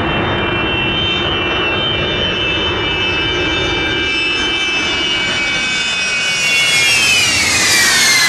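Jet aircraft flying low past, pretty loud: steady engine noise with high whining tones that grow louder about six seconds in, then slide down in pitch as it goes by.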